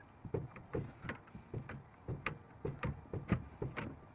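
Metal pipe fittings and hand tools being worked by hand: a string of irregular clicks and knocks, about three a second.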